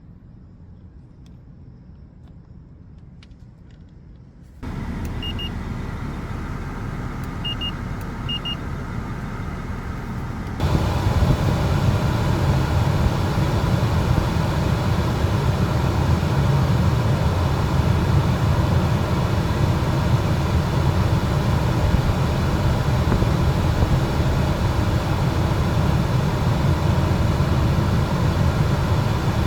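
Car climate-control blower switching on and running with a steady rush, with a few short beeps from the control panel. About ten seconds later it steps up abruptly to a louder, steady airflow.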